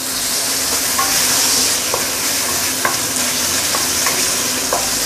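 Diced raw chicken sizzling in hot oil and chili spice paste in a stainless steel wok, with a steady frying hiss. A wooden spatula stirs it, scraping and tapping against the pan about once a second.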